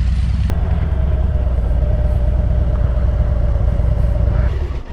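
Motorcycle engine running with a steady low rumble and a faint steady whine, stopping abruptly near the end.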